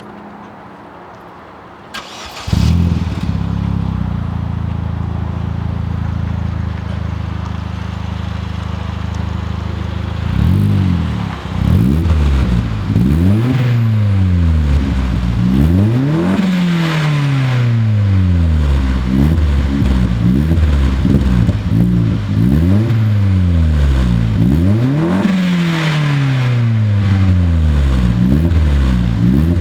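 Opel Corsa OPC's turbocharged 1.6-litre four-cylinder engine breathing through a custom 2.5-inch Magnaflow exhaust. It starts about two seconds in, idles steadily, then from about ten seconds in is revved over and over, the pitch rising and falling with each blip.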